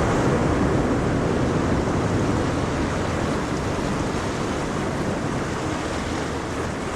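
Ocean waves washing on a shore: a steady rush of surf that eases off slightly towards the end.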